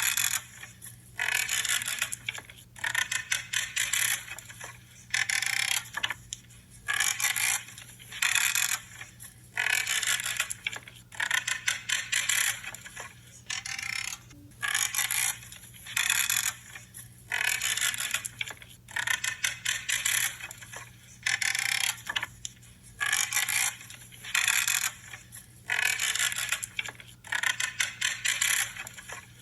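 Branches being trimmed: a crackly, creaking crunch with each cut, repeated about every second and a half.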